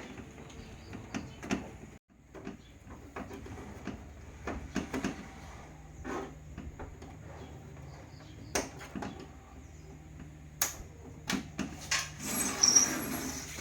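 Scattered clicks and knocks of tools and parts being handled on a repair bench, with a louder flurry near the end. A steady low hum and a faint high-pitched whine run underneath.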